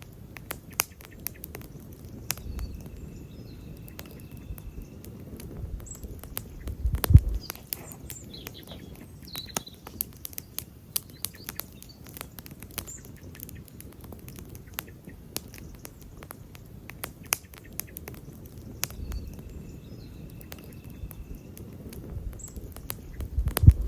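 Wood campfire burning, crackling with a steady stream of sharp pops and snaps, with a louder pop about seven seconds in and another near the end.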